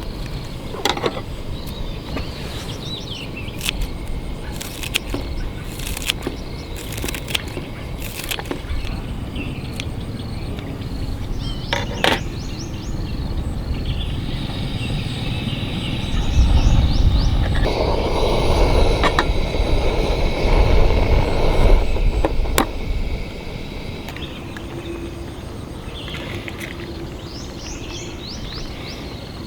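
Outdoor camp ambience: birds chirping in short sweeping calls a few times, sharp clicks and knocks scattered through the first half, and a louder rushing noise with a low rumble for several seconds in the middle.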